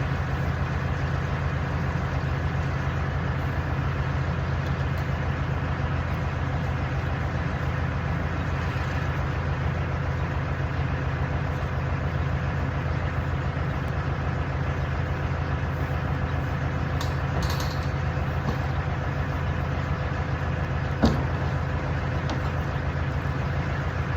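Tractor engine running steadily at idle. A single sharp knock about 21 seconds in.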